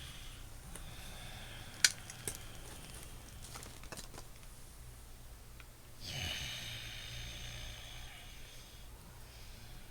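Audible breathing through the nose: one long hissing breath swells up about six seconds in and fades over a few seconds, with a sharp click a little under two seconds in.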